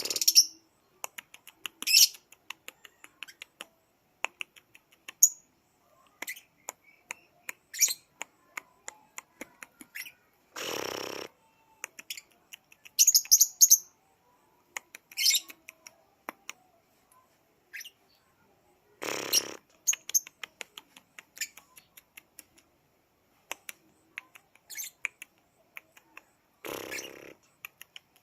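Baby lovebird giving many short, high chirps, with three longer, harsh rasping calls spread through.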